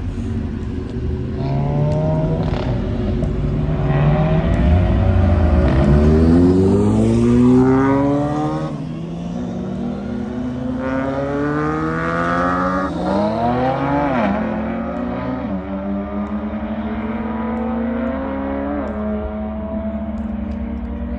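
Car engines revving and accelerating, their pitch climbing and falling several times, loudest about six to seven seconds in, then settling to a steadier run.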